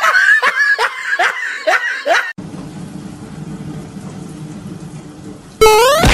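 A person laughing in a quick run of short bursts, then a steady low background hum. Near the end a loud pitched sound starts, rising in pitch.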